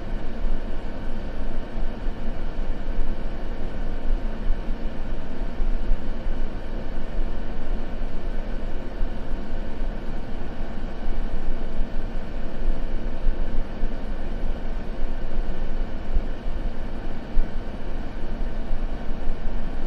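Continuous white noise for sleep, a steady even rumbling hiss weighted toward the low end with the highest treble cut off.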